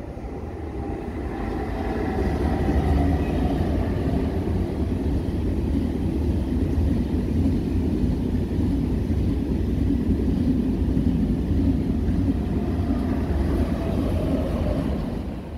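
KTX high-speed train rolling past on the station tracks, a low rumble of wheels on rail with a steady hum. It swells over the first couple of seconds, holds steady and begins to die away near the end.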